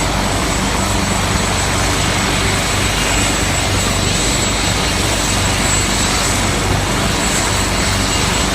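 Helicopter running loud and steady, its rotor and engine noise unbroken, with a constant high whine on top.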